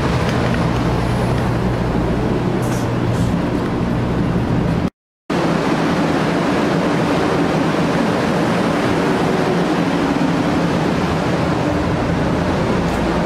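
Running noise of a JR West 500 series Shinkansen at speed, heard from its gangway: a loud, steady rushing noise with a low hum underneath. It drops out for a moment about five seconds in, then carries on.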